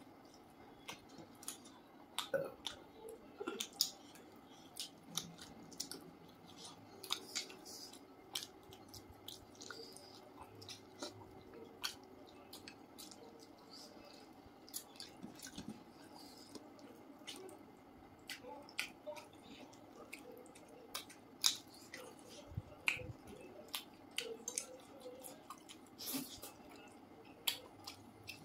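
Two people chewing and smacking their lips as they eat fish and chicken curry with their fingers: a continual run of short, wet clicks and smacks.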